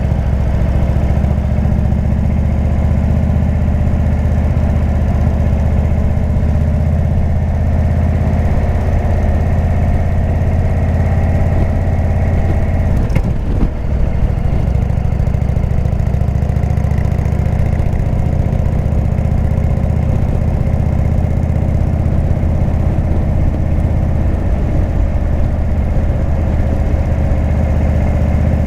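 Indian V-twin motorcycle engine with a Jekill&Hyde exhaust running at a steady, even note, with one short break in the note about halfway through.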